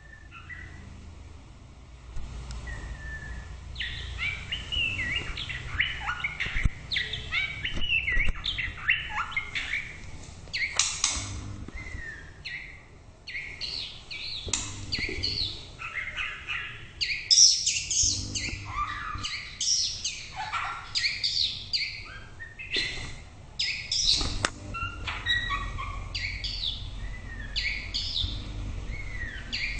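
White-rumped shama singing: after a brief lull it breaks into a long, rapid run of varied whistled phrases and sharp chattering notes.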